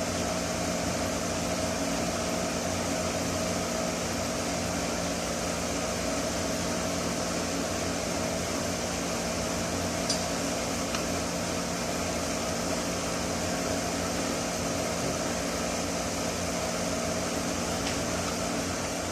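Steady hum of ventilation equipment such as a fan or air-conditioning unit, holding a few even tones. There are a couple of faint light clicks, one about halfway through and one near the end.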